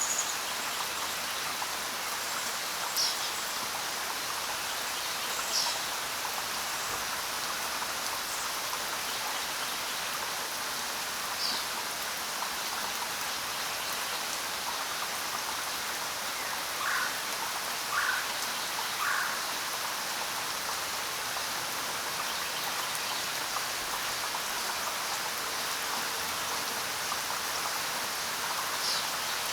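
Steady rain falling, with short bird chirps now and then. Past the middle come three lower calls about a second apart.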